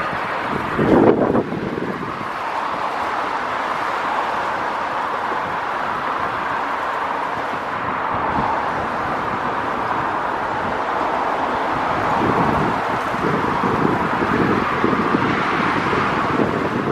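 Steam-hauled heritage passenger train, Queensland BB18¼ class locomotive 1079 with its coaches, running past as a steady rolling rush, with wind buffeting the microphone. A louder thump comes about a second in, and uneven low buffets come near the end.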